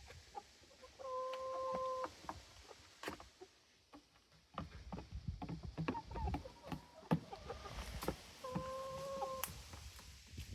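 Chickens calling: two drawn-out, even-pitched calls about seven seconds apart, among scattered short clicks and knocks.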